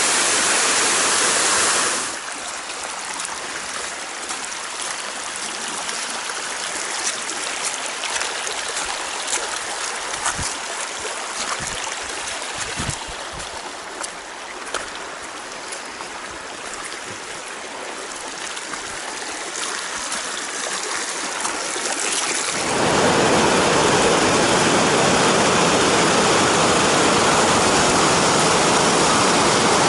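Rushing Colorado River water, a steady wash. It is loud at the start, drops abruptly and stays quieter through most of the stretch, with a few scattered knocks, then turns abruptly loud again about three-quarters of the way through.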